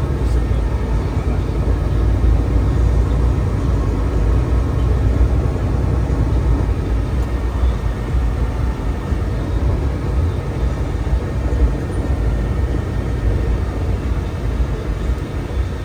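Steady low rumble of a moving truck: engine and road noise heard from inside the cab.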